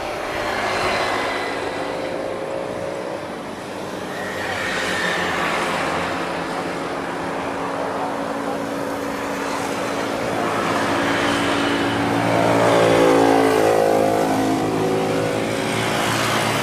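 Road vehicles passing one after another, their engines rising and falling in pitch with the loudest pass near the end, over the steady whine of a taxiing Gulfstream G550 business jet.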